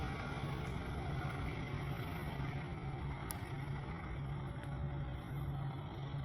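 Steady low engine rumble of a distant vehicle, with a pulsing low hum and a hiss of traffic-like noise, and one sharp click about three seconds in.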